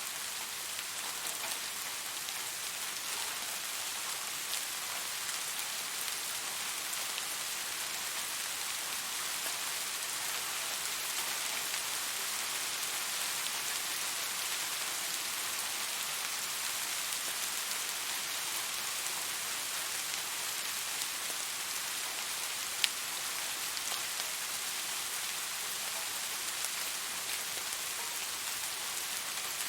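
Steady rain falling on a surface, an even hiss with many small drop ticks and one sharper, louder drip about 23 seconds in.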